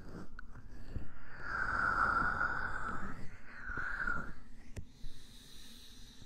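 Close-miked scratching and rubbing on an ASMR microphone, as in ear cleaning. It comes as a crackly stretch from about one to three seconds in, a shorter one around four seconds, then a faint hiss with a single click.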